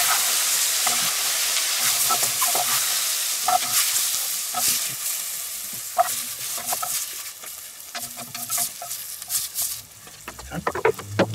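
Onions, mushrooms and leek sizzling in clarified butter in a cast-iron Dutch oven over charcoal, with scraping and clinks of tongs and a wooden spatula against the pot as the vegetables are lifted out. The sizzle fades as the pot empties.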